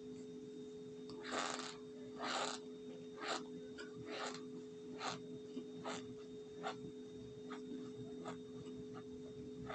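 Close-miked chewing of a mouthful, as in ASMR eating: crunchy bites about once a second, loudest in the first few seconds and growing fainter and shorter toward the end, over a steady low hum.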